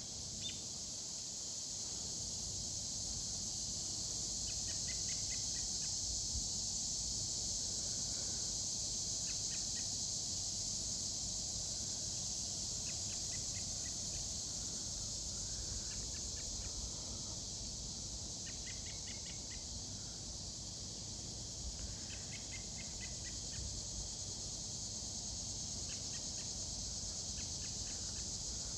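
Steady, loud buzzing chorus of cicadas (locusts), with short chirping calls every few seconds and a low rumble underneath.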